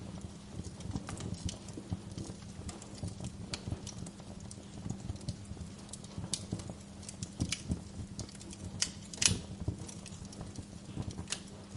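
Wood fire crackling with irregular snaps and pops, one louder pop about nine seconds in, over a steady low hum.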